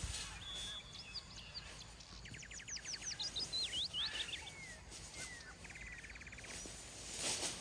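A small bird calling, with a rapid rattling trill, a run of short sliding chirps, then a second, shorter trill, over a steady rush of wind through the forest.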